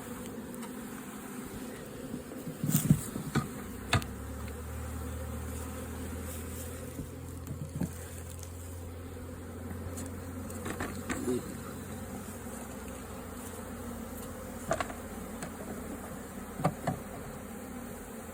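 Honeybee swarm buzzing steadily around an open hive, with several sharp knocks of wooden frames being set into the hive box, a cluster about three seconds in and more near the middle and end.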